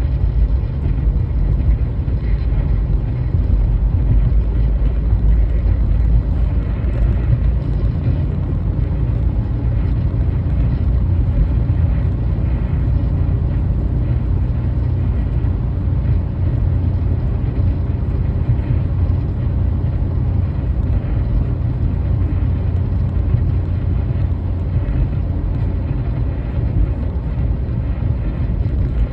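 A car driving over a rough, snow-covered road: a steady low rumble of tyres and engine.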